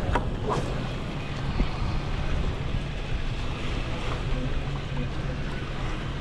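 Wind rumbling on the microphone over the steady wash of sea water below a fishing pier, with a few faint clicks near the start.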